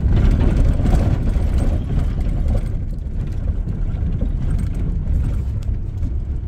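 A car driving: a steady low rumble of engine and road noise, a little louder in the first two seconds.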